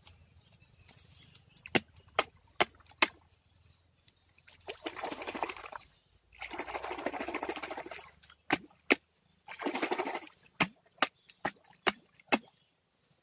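Close handling noises: a string of sharp clicks and knocks, with three longer rustling stretches of a second or two each in the middle.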